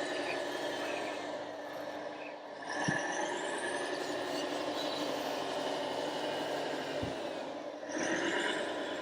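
Electric motors and gearboxes of radio-controlled model construction machines whining, their pitch gliding up and down as they speed up and slow down and easing off briefly twice. Two short low knocks come about three and seven seconds in.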